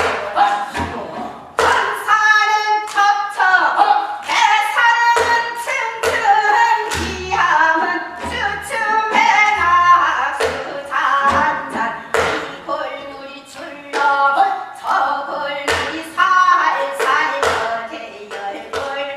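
Voices singing a Gyeonggi-sori hwimori japga, the fast patter-style Korean folk song, in a continuous rapid melodic line, with sharp percussive strokes and low thumps keeping the beat.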